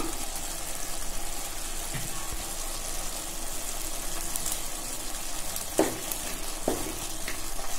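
Chicken pieces sizzling in oil and their own juices in a kadai, a steady hiss while a wooden spatula stirs them, with two light knocks near the end.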